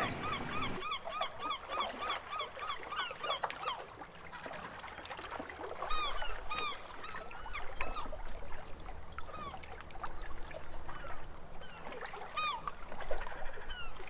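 Birds calling: a quick run of short calls, each rising then falling, about four a second, then scattered single calls.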